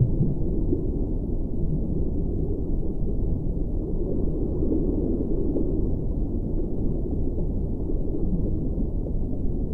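A steady low rumble of noise with no distinct tones or beats, swelling slightly about halfway through.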